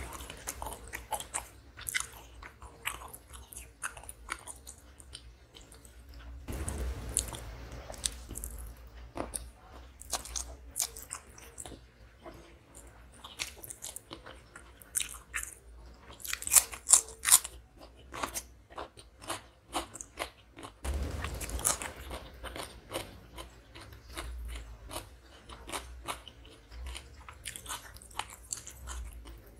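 Close-miked chewing and crunching of food eaten by hand, with crisp crunches from biting raw cucumber slices. The crunches are loudest about halfway through.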